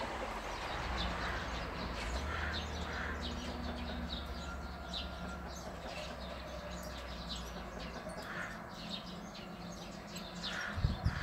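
Small birds chirping, many short high notes in quick succession, over a low steady hum, with a brief low knock near the end.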